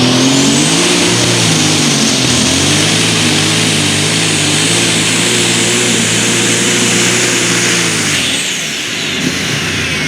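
Case International light super stock pulling tractor's turbocharged engine running flat out under load down the track, with a high turbo whine that climbs near the start and holds. About eight seconds in the throttle comes off and the whine winds down as the engine drops away, marking the end of the pull.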